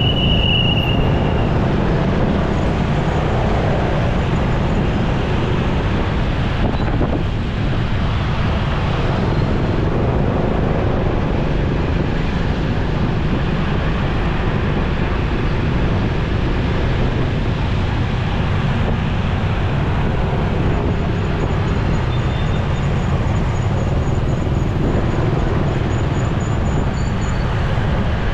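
Motorcycle riding in city traffic: steady low wind rumble on the microphone over engine and road noise, with a brief high beep right at the start.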